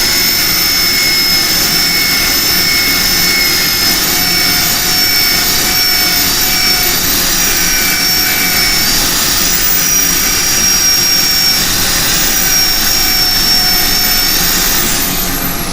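A high-speed power sander's motor spinning up to a high whine, running steadily to sand out a sanding line in the turned wood, then winding down near the end.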